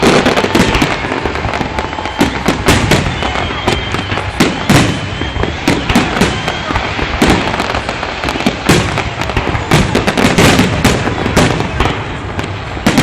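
Fireworks salute: shells bursting in a dense, irregular run of loud bangs and crackles, several a second, without let-up.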